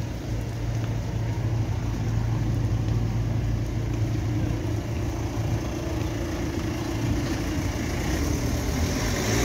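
Urban street noise with a car engine running steadily nearby, a low, even hum under the general traffic sound.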